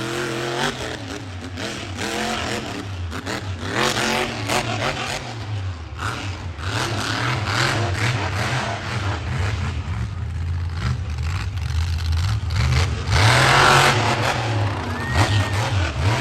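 Monster truck engine running and revving repeatedly, its pitch rising and falling, with the loudest burst of revving about thirteen seconds in.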